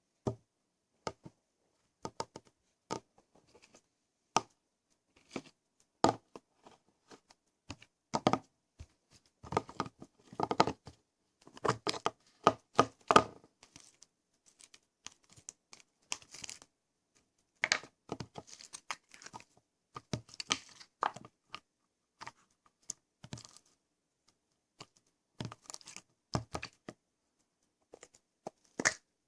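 Hands handling slime-making materials: scattered short clicks, taps, crinkles and tearing rustles, with silent gaps between them and busier stretches in the middle.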